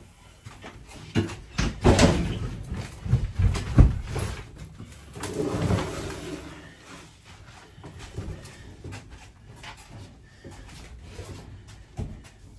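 A run of sharp knocks and clattering thumps over a couple of seconds, with a low cooing call of a pigeon or dove about five seconds in and a single knock near the end.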